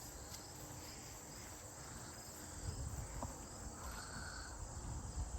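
Crickets chirping steadily in the background, with a faint click about three seconds in.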